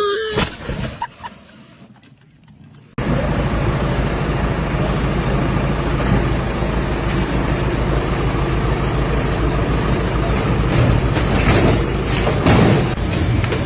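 Engine of a large vehicle or machine running steadily with a low, evenly pulsing rumble, starting abruptly about three seconds in after a short, quieter stretch with a few clicks.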